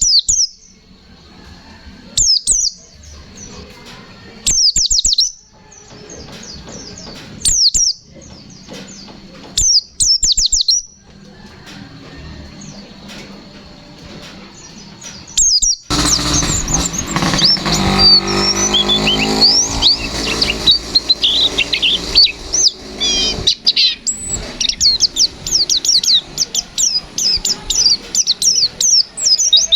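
Pleci (white-eye, Zosterops) singing: short loud bursts of rapid, high sweeping notes about every two to three seconds, then from about halfway a long, dense, unbroken stream of fast song.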